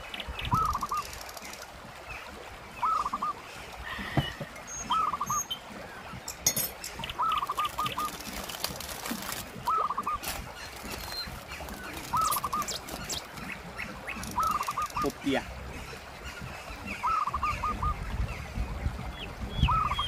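A bird calling over and over, about every two seconds: each call is a short rising note followed by two or three quick notes. Underneath is the steady rush of the river.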